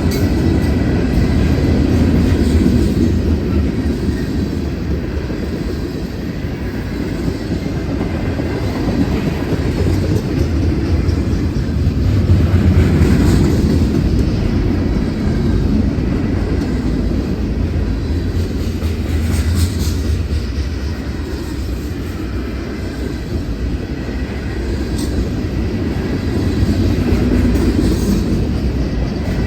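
CSX freight train rolling past: a steady, loud rumble of cars on the rails, with a few brief sharp clicks from the wheels.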